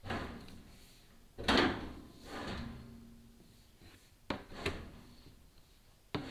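Scraping swishes and several sharp knocks as a chimney inspection camera and its cable are lowered down a flue, rubbing and bumping against the liner. The loudest scrape comes about a second and a half in, and the knocks come near the end.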